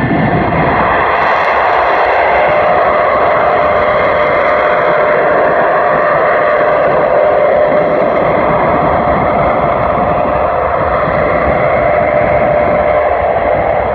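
An engine running loud and steady at constant speed, a held tone over a dense rush with no change in revs.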